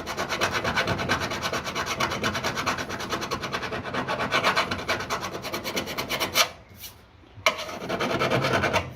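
Rapid, even back-and-forth strokes of a hand file or sanding block on the welded steel door sill, flatting it to find high and low spots. The strokes break off briefly with a click a little past six seconds, then start again.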